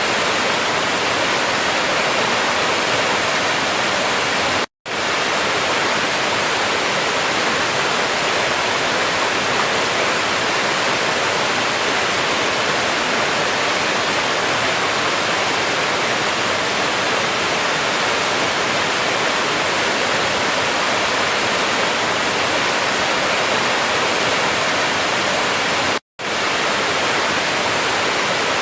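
Waterfall pouring, a steady dense rush of falling water, cut twice by split-second dropouts to silence, once about a sixth of the way in and once near the end.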